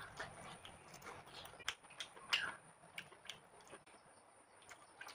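Faint close-up mouth sounds of a person eating rice and pork by hand: chewing with scattered lip smacks and sharp clicks, the loudest about two and a half seconds in.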